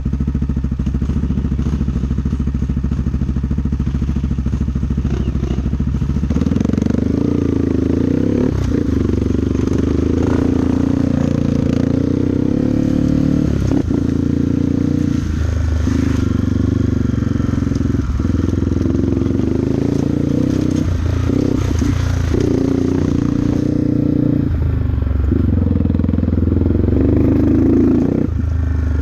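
Off-road motorcycle engine running at low revs, then from about six seconds in pulling at higher revs under load, with repeated short drops in revs as the throttle is eased or gears change.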